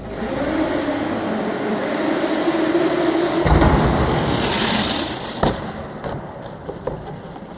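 Small RC rally car with a brushless motor driving: steady tyre and drivetrain noise with a motor whine that wavers in pitch with speed, and a heavy knock about three and a half seconds in and another about five and a half seconds in as the car hits bumps.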